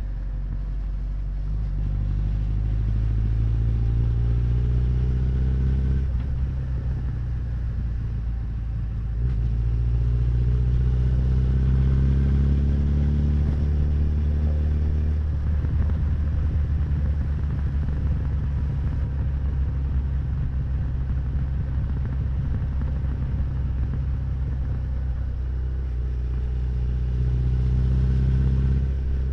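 Honda CB1100's air-cooled inline-four engine and exhaust under way. The note climbs in pitch under acceleration and drops suddenly twice in the first half, runs steadily through the middle, then climbs and drops once more near the end.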